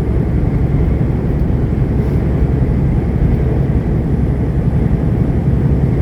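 Steady drone inside a semi-truck's cab: engine and road noise from the truck running down the highway.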